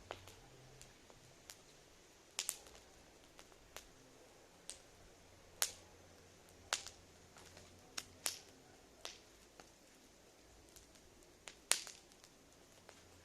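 Wood fire crackling: irregular sharp snaps and pops, a few of them louder, over a faint steady background.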